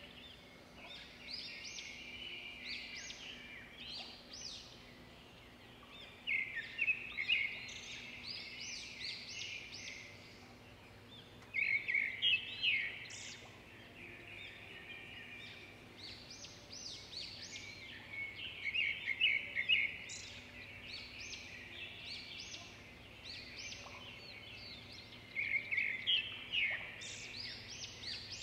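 Birds singing and chirping, with loud bouts of quick repeated notes about every six or seven seconds and softer chatter between them, over a faint steady low hum.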